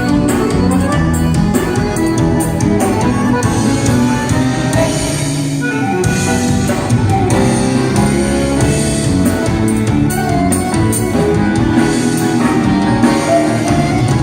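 A band playing instrumental music with a drum kit keeping a steady beat under held melodic notes from stringed or other pitched instruments.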